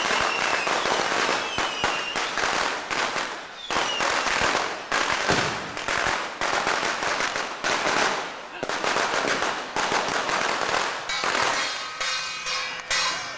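Strings of firecrackers going off in a dense, continuous rapid crackle, with music coming in near the end.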